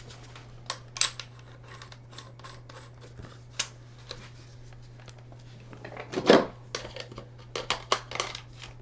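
Hand-held PEX A expansion tool with a half-inch head clicking and snapping as it is worked to expand a PEX pipe end. The clicks come irregularly, with a heavier clack past the middle and a quick run of clicks near the end, over a low steady hum.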